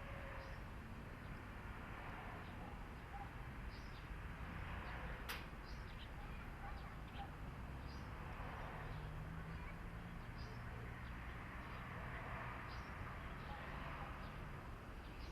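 Small birds chirping now and then over a steady low hum, with one sharp click about five seconds in.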